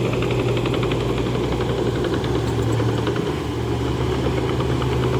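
Bulldozer's diesel engine running steadily, with a fast, even clatter over it.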